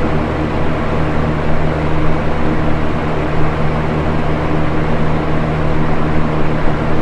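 Box fan running steadily: an even whoosh of moving air over a low motor hum.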